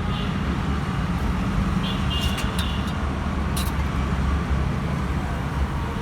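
Steady road traffic rumble, with a few short sharp clicks about halfway through.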